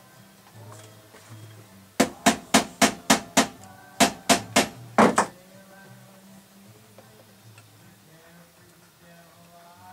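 About a dozen sharp knocks in two quick runs of roughly three a second, over faint background music.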